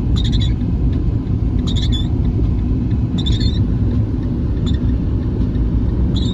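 Small Fiat car driving on a snowy road, heard from inside the cabin: a steady low rumble of engine and tyres. The windshield wipers squeak with a short high chirp on each sweep, about every second and a half.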